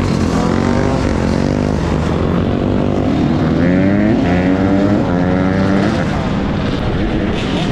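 Dirt bike engine revving under throttle, its pitch rising and dropping back several times, with a stronger climb about three and a half to five seconds in.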